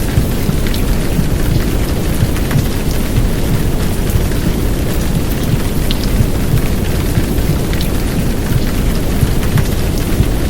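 Heavy downpour rain, a steady dense hiss with a deep low rumble under it and scattered sharp drop ticks.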